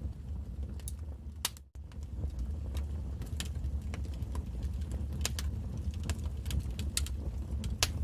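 Wood fire crackling: irregular sharp pops and snaps over a low steady rumble, with a brief drop-out in the sound a little under two seconds in.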